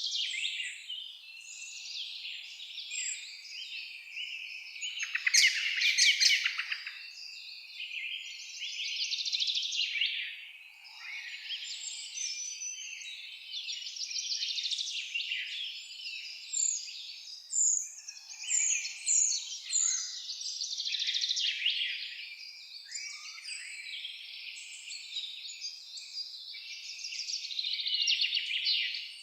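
Several songbirds singing and calling at once, overlapping chirps, whistles and trills, with a loud rapid trill about five to seven seconds in.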